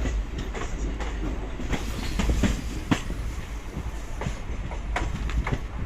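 Running express train's passenger coach: a steady low rumble with irregular clicks and knocks as the wheels pass over the rails.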